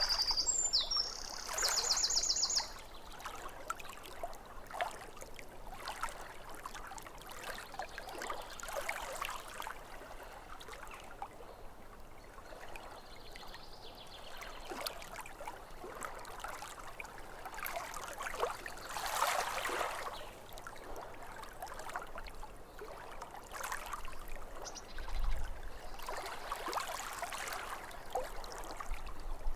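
Small waves lapping at a lake shore, a soft wash that swells every few seconds. A songbird sings over it in the first couple of seconds, ending in a quick trill.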